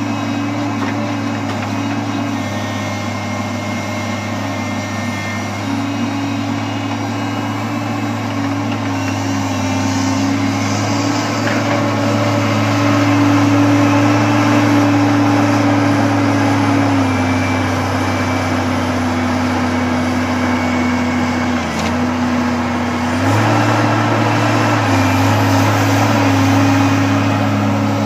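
Heavy engine running steadily during log unloading, its pitch stepping down about two thirds of the way in, dipping briefly, then picking back up near the end as the load on it changes.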